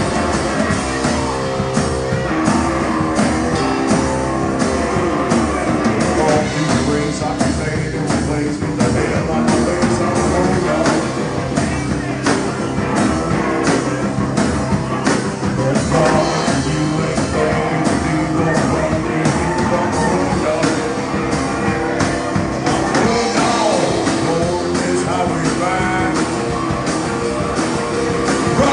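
Live band playing a rock-and-roll song, drums keeping a steady beat under guitar and singing.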